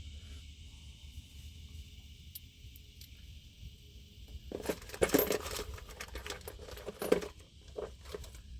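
Small metal parts clinking and rattling against each other as they are rummaged through, a quick flurry of clinks starting about halfway in, with a couple of louder knocks.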